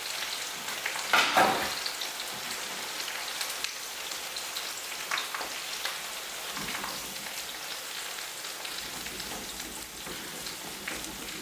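Thick butter chicken sauce sizzling steadily in a pan on the hob, with fresh butter just added, and a few louder utensil knocks about a second in.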